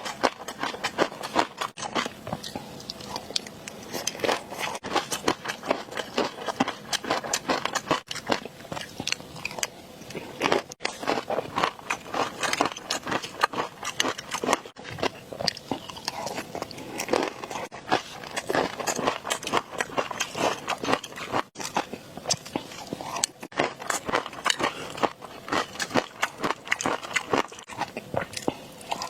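Close-miked eating: rapid crunching, crackling bites and chewing, dense and continuous with a few brief breaks.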